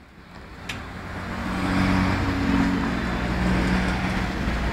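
A car engine running close by on the road, growing louder over the first two seconds, then holding a steady low hum over a low rumble.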